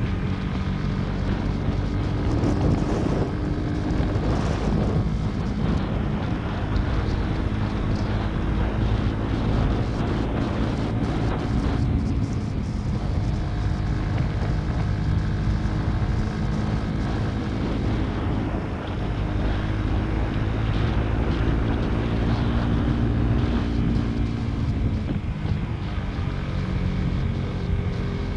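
Motorcycle engine running while riding, its pitch rising and falling with the throttle, over steady wind noise on the microphone.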